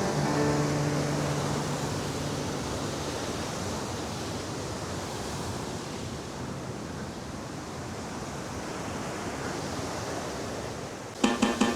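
Steady rushing noise of a waterfall. A held low note of background music fades out over the first few seconds, and the music starts again with plucked notes near the end.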